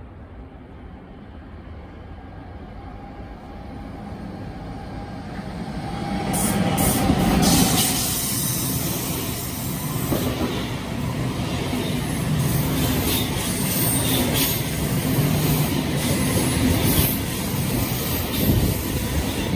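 SBB double-deck passenger train approaching and running past alongside the platform. A rumble grows from about four seconds in, then loud wheel-on-rail noise with many sharp clicks.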